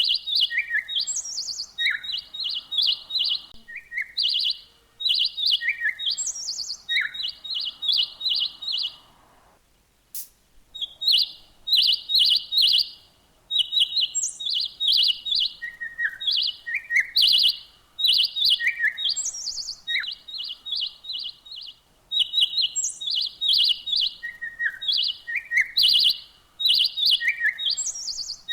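Small birds chirping: quick runs of short, high notes repeated over and over, with lower single chirps mixed in and a few brief pauses between runs.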